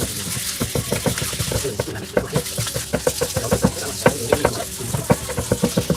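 Rapid, irregular clicking and knocking over a steady scraping noise, about five to eight strokes a second, like hand work on hard parts.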